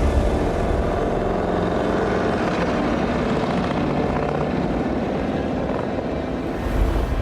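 Harley-Davidson motorcycle's V-twin engine running steadily, with a brief swell near the end.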